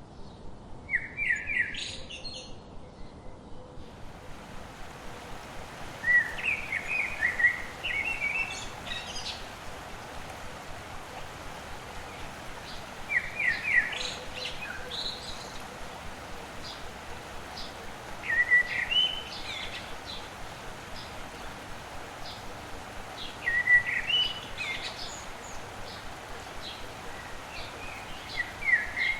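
A songbird singing short phrases of quick chirping notes, repeated about every five seconds, over a steady background hiss.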